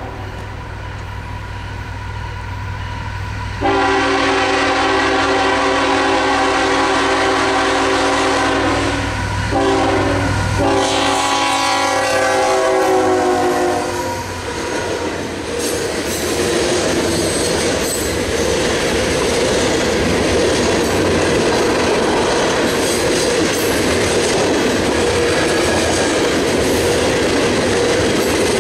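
CSX freight train passing: the lead diesel locomotive's horn sounds a long blast, a short one and another long one over the engine's low rumble, the grade-crossing signal. About halfway through the horn stops as the locomotive goes by, and the freight cars roll past with steady wheel noise and a clickety-clack over the rail joints.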